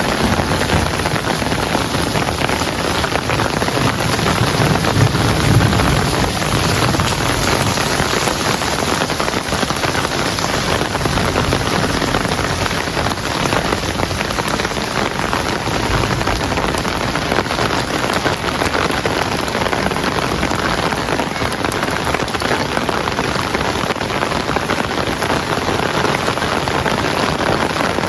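Heavy rain falling steadily on a surface, a dense, even hiss with a slight low rumble swelling about five seconds in.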